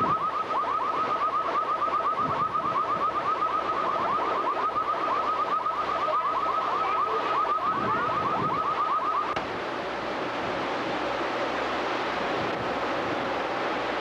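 An electronic alarm beeping rapidly at one steady pitch, several beeps a second, over a hiss of noise. About nine seconds in the beeping stops and a steady rush of wind and surf carries on.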